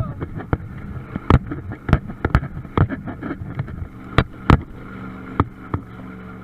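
Truck engine running with a steady drone as the truck spins donuts in snow, with frequent sharp knocks and clatters over it.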